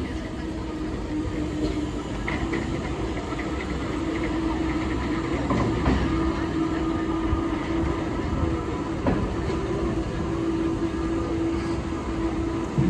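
A train moving along the track: a steady rumbling hum with a few sharp clicks from the wheels.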